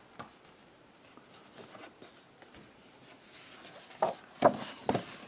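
Printed paper sheets being handled and turned over: a faint rustle, then a few short, sharp paper crackles near the end.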